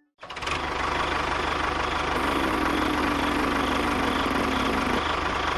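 A motor running steadily, starting up just after a brief silence and holding an even, unchanging level.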